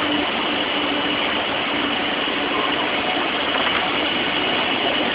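Steady mechanical hum and rushing noise of a 500 Series Shinkansen train at the platform, with a faint steady high tone throughout.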